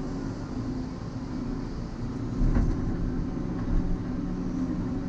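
Volvo EC140EL excavator's diesel engine running steadily, with a low knock about halfway through.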